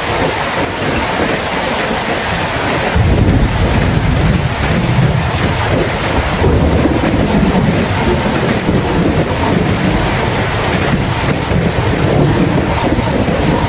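Steady rain with rolling thunder: a low rumble comes in suddenly about three seconds in and keeps rumbling under the rain.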